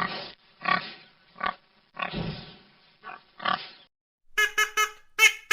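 A pig making about six short grunting calls, then, about four seconds in, a duck quacking five times in quick succession.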